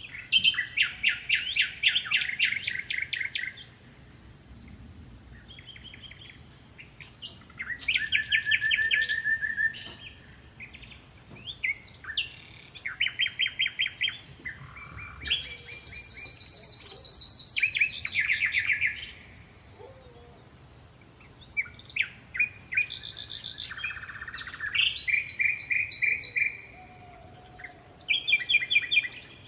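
Songbirds singing: a series of fast trilled phrases, each a rapid run of repeated notes, in several different song types with short pauses between them. A faint steady high-pitched tone runs underneath.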